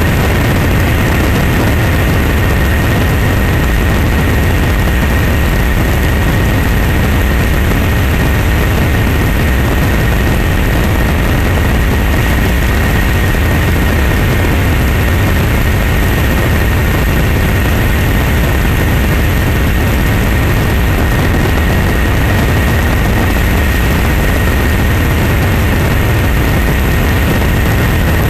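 Steady engine noise: a heavy low drone with a constant thin high whine above it, unchanging throughout.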